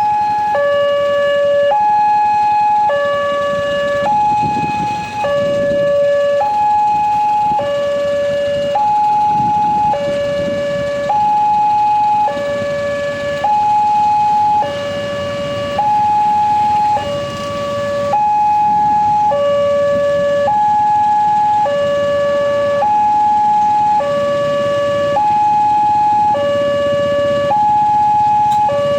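Railway level crossing warning alarm sounding a steady two-tone electronic signal, a lower and a higher tone alternating about every second and a quarter, with a low rumbling noise underneath.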